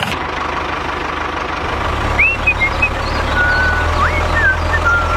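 A low, steady engine-like drone under a noisy background, with a few short high whistling chirps and held tones over it from about two seconds in.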